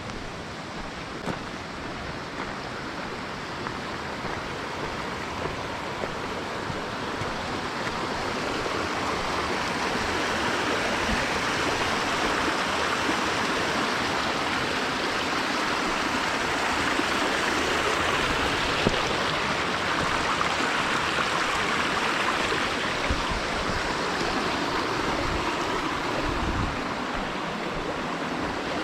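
Rushing water, steady and full, growing louder over the first ten seconds or so and then holding.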